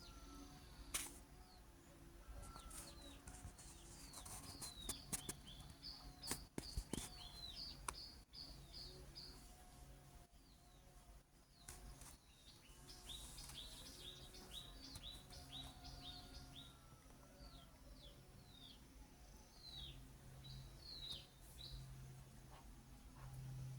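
Faint, high bird chirps: short, falling notes in quick runs, with a few sharp clicks. A low steady hum comes in near the end.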